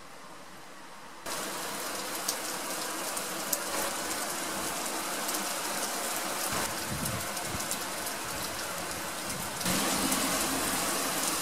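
Heavy rain falling steadily. It comes in suddenly about a second in and gets louder near the end, with a low rumble of thunder in the middle.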